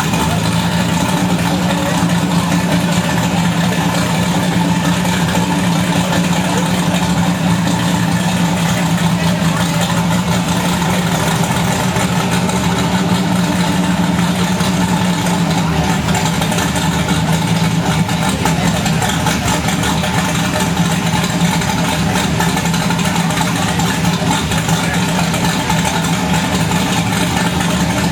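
Turbocharged V6 of a Ford Thunderbird SuperCoupe idling steadily, holding an even pitch with no revving.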